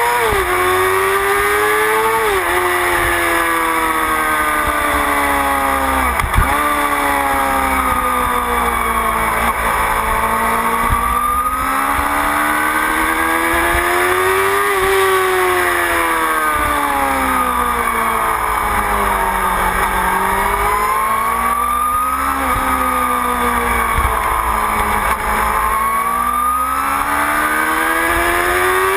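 Motorcycle engine heard from an onboard camera, repeatedly climbing and falling in pitch as the bike accelerates and slows, with several sudden pitch drops at gear changes. A steady low wind rumble on the microphone runs underneath.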